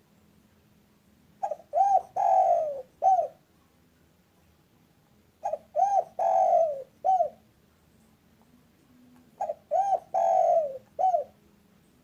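Spotted dove (tekukur) cooing: three phrases about four seconds apart. Each phrase has two short coos, a longer falling coo, and a short closing coo.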